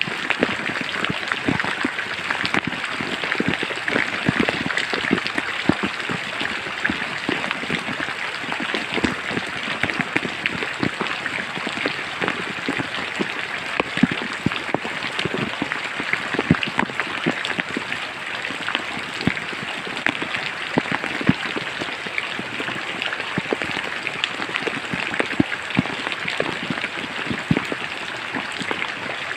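Steady rain falling in a forest, a constant hiss with many individual drops striking sharply close by.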